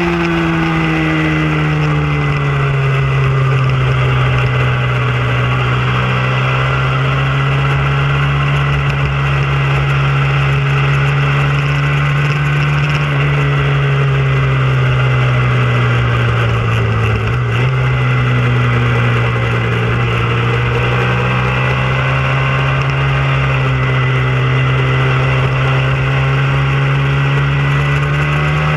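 Hyosung sport bike's V-twin engine heard from onboard, pulling hard at high revs around a race track. The engine note drops over the first two seconds, then holds fairly steady with small rises and sags and a brief dip about two-thirds of the way through, over a low rush of wind.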